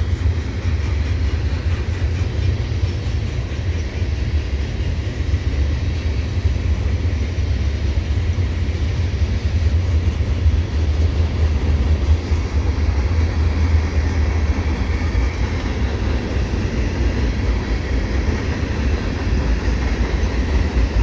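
Freight train's gondolas and covered hopper cars rolling past close by: a steady rumble of steel wheels on rail.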